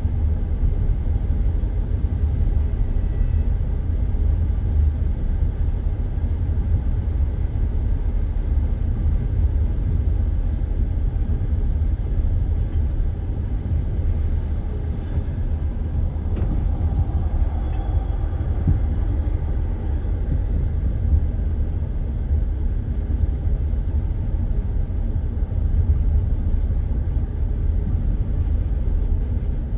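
Steady low rumble of a passenger train carriage rolling on the rails, heard from inside the car.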